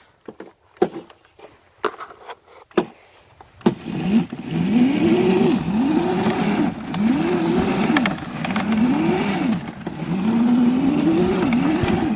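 Mini dirt bike's small engine revved up and down over and over, about six rises and falls in quick succession, after a few sharp knocks in the first few seconds.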